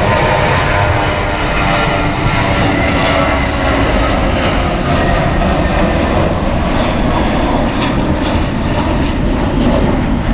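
Jet airliner's engines heard loud and steady at close range, with a whine of steady tones in the first few seconds that fades as the rushing noise carries on.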